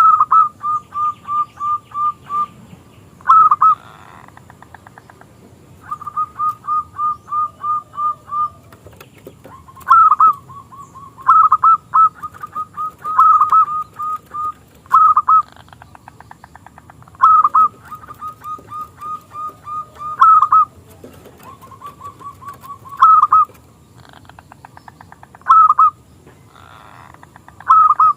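Zebra dove (perkutut) cooing in repeated phrases. Each phrase opens with one or two loud notes and runs on into a quick train of short, even coos, about four a second.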